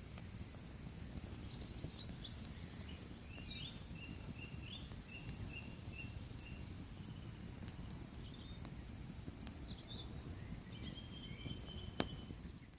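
Songbird singing over a steady low rumble: quick twittering phrases, then a run of evenly spaced repeated high notes, about two a second. The pattern comes twice, and there is a single sharp click near the end.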